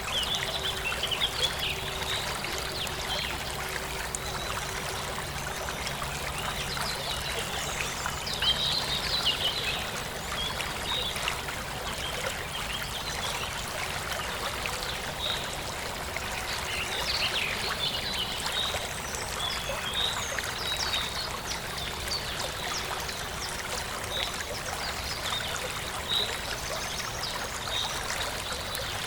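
Forest stream flowing steadily, with birds chirping in short, high calls scattered throughout.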